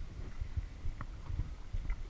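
Kayak on a lake: water lapping and splashing around the hull and paddle over a low, uneven rumble, with a couple of light clicks, one about a second in and one near the end.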